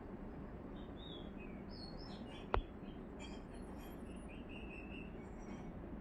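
Birds chirping in short high calls over steady background noise, with a single sharp click about two and a half seconds in.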